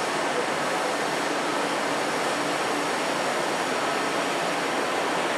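Steady rushing noise of an underground railway platform with a Keisei 3000-series electric train standing at it, its onboard equipment running, with a faint steady hum.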